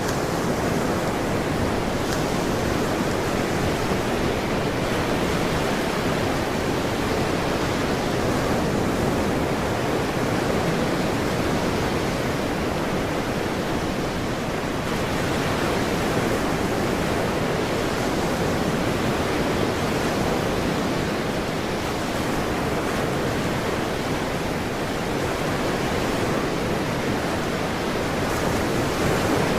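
Ocean surf: a steady wash of waves with slow, gentle swells in loudness.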